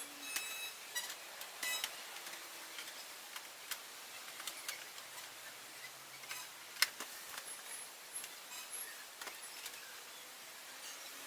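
Faint scattered clicks and light taps, with one sharper click about seven seconds in.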